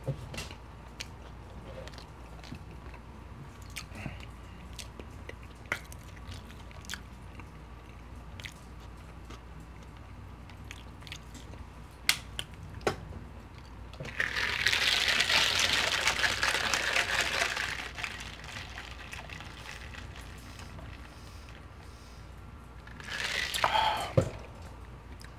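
Close-miked chewing of poutine (fries, gravy and cheese curds), with soft wet smacks and small clicks scattered throughout. About fourteen seconds in a louder rushing, rustling noise lasts about four seconds, and a shorter one comes near the end.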